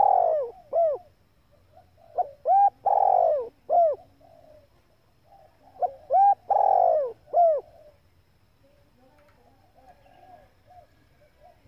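Female spotted dove cooing: three repeated phrases, each a few short rounded notes around a longer drawn-out coo, a couple of seconds apart. Faint small chirps fill the last few seconds.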